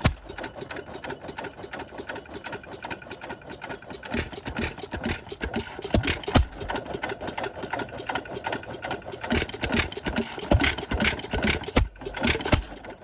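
Sta-Rite 1½ hp hit-and-miss stationary engine running with a fast, steady clatter. Clusters of louder firing strokes come a few seconds in and again later, with lighter coasting clatter between them.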